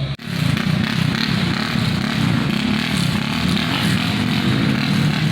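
A vehicle engine running steadily, starting just after a brief cut near the beginning.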